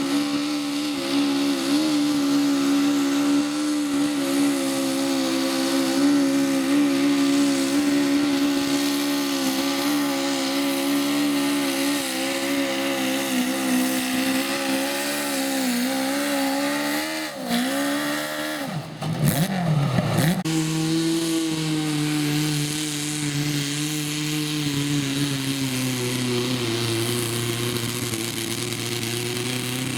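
Garden tractor engine running steadily. About 17 seconds in its pitch wavers and drops sharply, then recovers and runs on at a lower, steady note that sinks a little further near the end.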